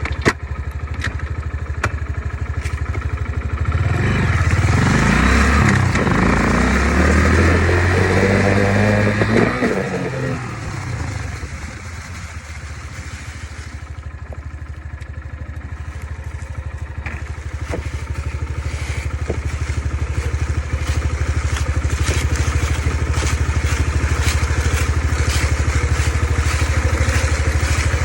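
Four-stroke Honda dirt bike engine running, revving up with rising pitch for several seconds about four seconds in, easing back to a lower, quieter run, then running steadily louder again near the end, with scattered light clattering ticks.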